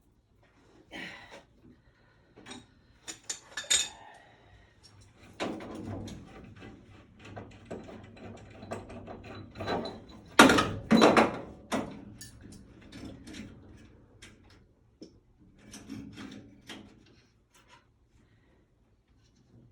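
Irregular knocking, clicking and clattering of hands-on installation work, with two loud thuds about ten and eleven seconds in.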